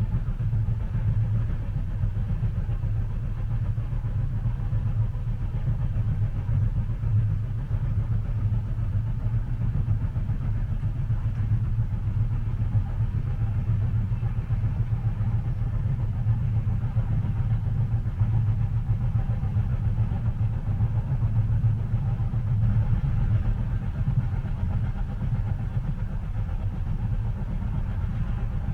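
Steady low rumble of a moving train heard from inside the passenger cabin, even and unbroken without distinct wheel clicks.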